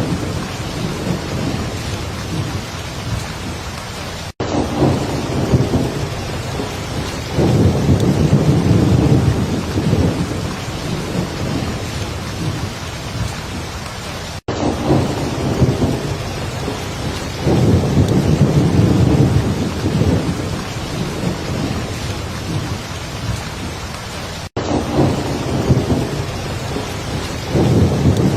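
Heavy rain falling steadily, with low rolls of thunder swelling about every ten seconds. The sound cuts out for a split second three times, about ten seconds apart, as the same rain-and-thunder recording repeats.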